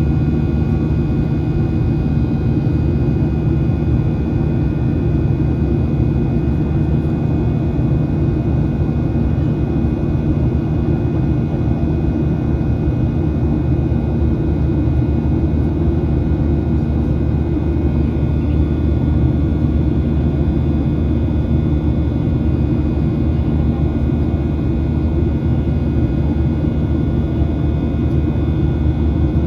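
Steady cabin noise inside a Boeing 737-800 in flight: a loud, even low drone of airflow and its CFM56-7B turbofan engines, with a few faint steady whining tones above it.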